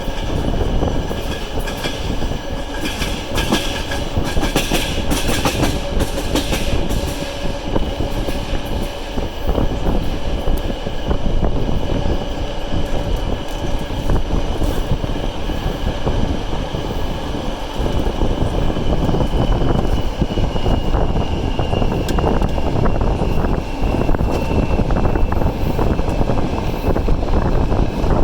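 Passenger train running, heard from aboard, its wheels clattering over rail joints under a steady rumble, with a thin high squeal that drops slightly in pitch about twenty seconds in.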